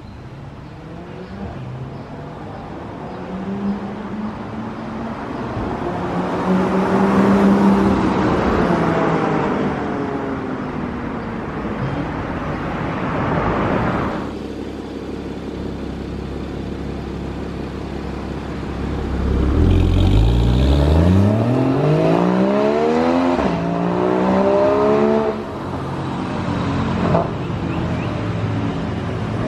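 Porsche 981 Cayman S flat-six engine and exhaust under acceleration, its pitch rising and falling over several pulls. One pull cuts off abruptly about halfway through, and a fast climb in pitch follows about two thirds of the way in.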